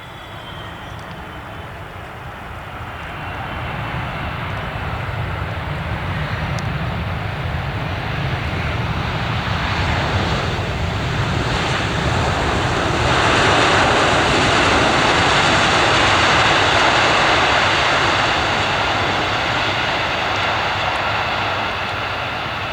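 Cargo aircraft's engines passing by, their noise building steadily to a peak a little past halfway and then slowly fading.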